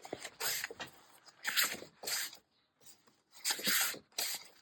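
Sheets of Graphic 45 patterned paper rustling and swishing as they are handled and leafed through, about five short brushing swishes.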